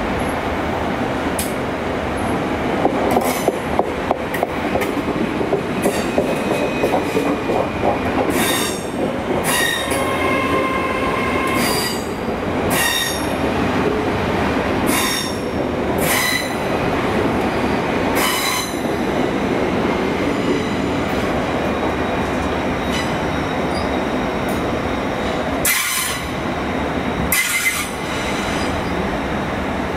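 GWR Intercity Express Train running slowly past the platform on the curved station approach: a steady rumble and clatter of wheels on track. Repeated short, high wheel squeals come through most of it, with one longer squeal about ten seconds in.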